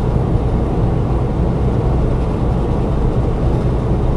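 Steady low drone of a moving truck: engine and road noise heard from inside the cab.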